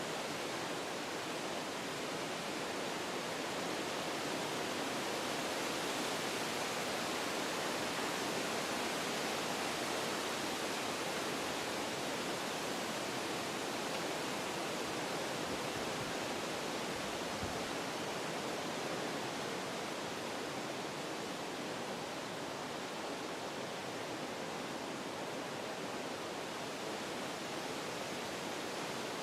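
Wind blowing through forest trees: a steady rushing that swells a little in a gust and then eases off.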